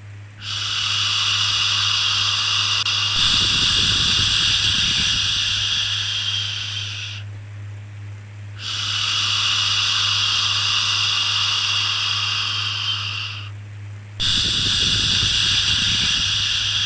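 A voice making long, drawn-out 'shhh' shushing sounds to soothe a baby, each held for about six seconds with short pauses between, three in all. A steady low hum runs underneath.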